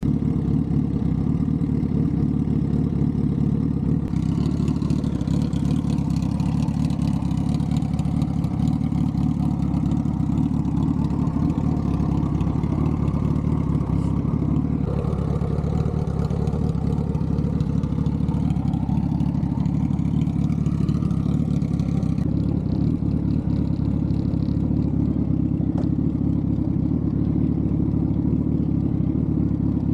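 Suzuki motorcycle engine running steadily, its pitch rising and falling gently in places midway.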